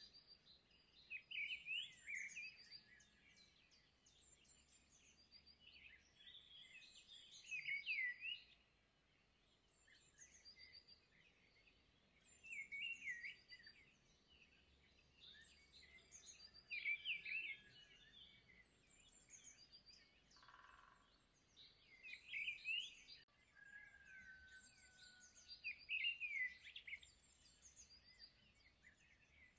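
Faint bird song: short bursts of chirping and twittering that come back every four to five seconds.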